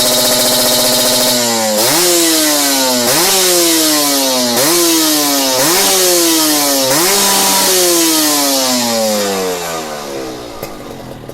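Kawasaki Ninja RR's two-stroke single-cylinder engine through a WRX GP4 aftermarket exhaust, first held at steady revs, then blipped about five times, each rev rising sharply and falling away. Near the end the revs drop off and the engine fades.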